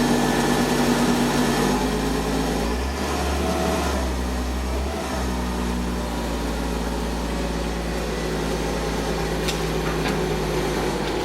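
An engine running steadily, its speed stepping down a little about two and a half seconds in.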